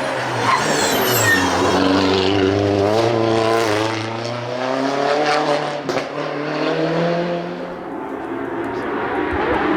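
Competition car's engine pulling hard uphill, its pitch climbing steadily for several seconds, with a sharp crack about six seconds in, then dropping away near the end.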